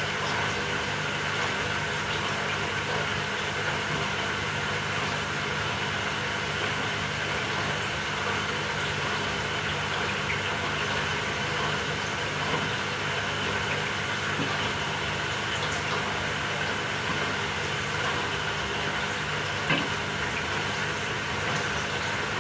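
Samsung 6.5 kg top-loading washing machine running on a quick cycle: a steady motor hum under an even wash of mechanical noise, with one brief click near the end.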